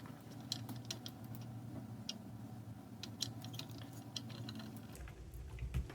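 Light, scattered clicks and taps of small plastic parts being handled as a clasp inside a food scale is undone, over a faint steady low hum.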